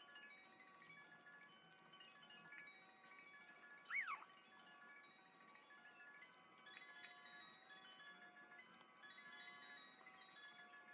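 Faint chimes ringing softly in scattered, overlapping tones at many pitches. About four seconds in there is a brief, louder sound that slides up and back down in pitch.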